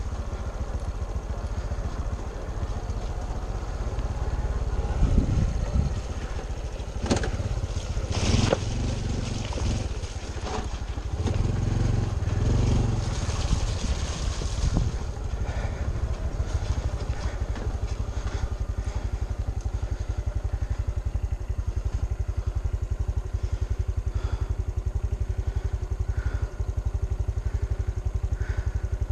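Honda CT125 Trail 125's single-cylinder four-stroke engine running steadily while the bike is ridden on a dirt trail. Scattered knocks and clatters come between about 5 and 15 seconds in.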